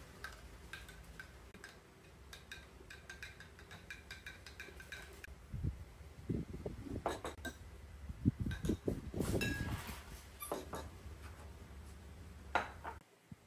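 A metal spoon stirring coffee in glass mugs, clinking quickly against the glass for the first few seconds. Heavier knocks and clatter follow as the glasses and a plate are set down on a wooden tray and table.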